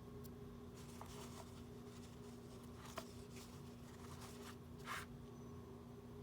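Faint clicks and scrapes of small tools and parts being handled at close range, with one sharp click about three seconds in and a brief scrape near the end, over a steady low electrical hum.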